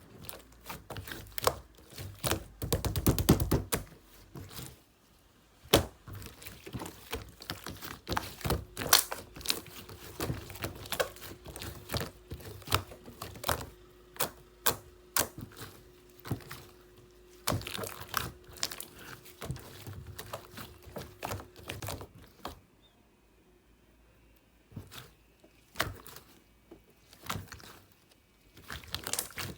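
Clear slime topped with a layer of clay being pressed, poked and stretched by hand, giving irregular sticky clicks and pops, with a dense flurry of them about three seconds in.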